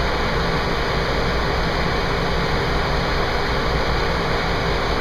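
A fire engine's diesel engine running steadily: a constant low drone under an even hiss.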